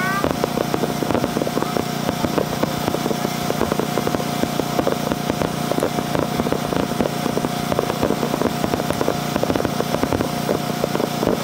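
Fireworks display: a dense, continuous run of crackles and pops from bursting shells, over a steady hum.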